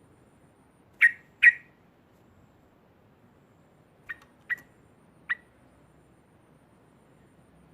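Yellow-vented bulbul giving short, sharp call notes: two loud ones half a second apart about a second in, then three softer ones a few seconds later.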